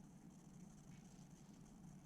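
Near silence: a steady low hum and faint hiss of room tone, with no clear chewing or other event.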